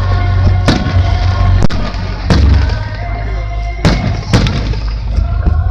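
Fireworks shells bursting with sharp bangs, about five in a few seconds, over music playing throughout.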